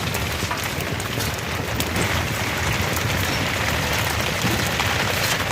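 Steady rain falling, a dense hiss of drops with scattered small ticks of drops striking a surface.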